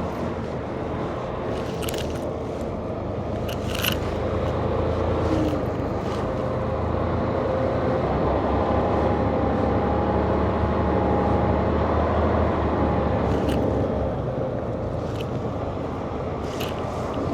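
Semi truck's diesel engine running with the drone of the cab, swelling a little in the middle, with a few short sharp clicks or rattles scattered through it.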